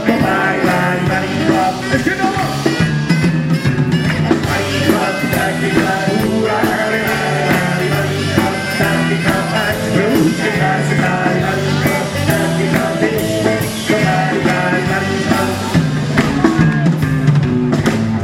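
Live rock and roll band playing a passage without lyrics, with drum kit driving a steady beat under the other instruments.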